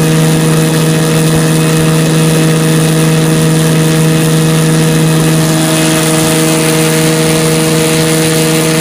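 1967 Evinrude 9.5 hp Sportwin two-cylinder two-stroke outboard running steadily under way at a constant pitch. A hiss over the motor grows a little stronger about six seconds in.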